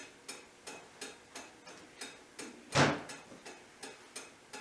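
Steady, even ticking at about three ticks a second, with one louder knock nearly three seconds in.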